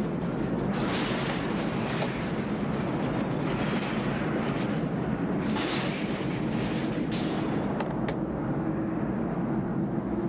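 Storm wind from an approaching tornado roaring steadily, with a low wavering howl underneath and hissing gusts sweeping through several times.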